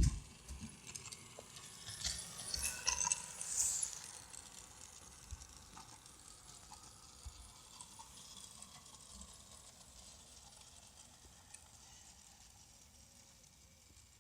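Garden-scale model train running on its track: a clicking, rattling clatter about two to four seconds in, then a faint steady running sound that slowly fades away.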